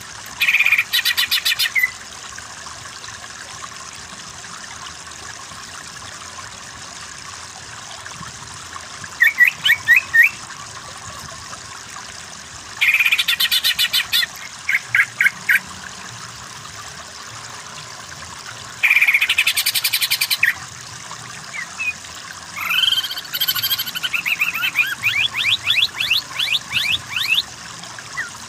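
Cucak ijo (green leafbird) singing in loud, rapid trilled phrases, about five bursts with pauses between them and a longer run of calls near the end, over a steady background of running water.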